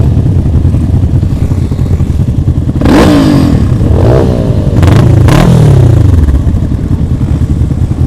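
Motorcycle engines running loud, with the engine pitch rising and falling several times about three to six seconds in as the bikes are revved or ride by.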